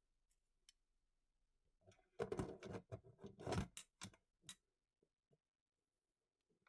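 Kitchen clatter: a burst of clicks and knocks lasting about two seconds, followed by a few faint scattered taps. No blender motor is running.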